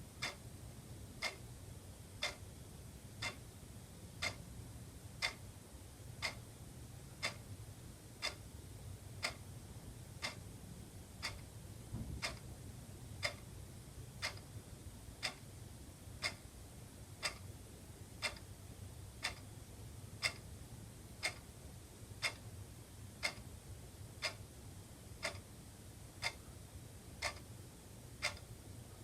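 Wall clock ticking steadily, one tick each second, over a faint low hum.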